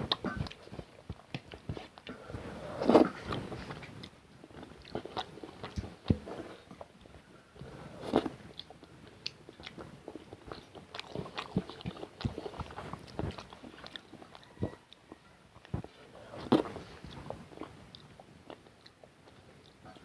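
Close-up eating sounds: a person chewing and smacking a mouthful of rice with egg curry and dal, in many short wet clicks, with a few louder smacks spread through.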